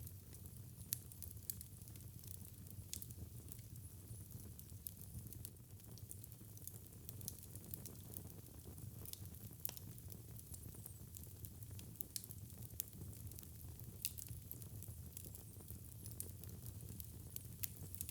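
Wood fire burning in a fireplace, with a low steady rumble of flames and frequent small, irregular crackles and pops, a few of them sharper.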